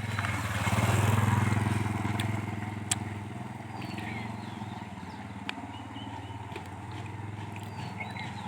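A motor vehicle's engine running, loudest about a second in and then easing to a steadier, quieter hum. A sharp click near the three-second mark and faint bird chirps.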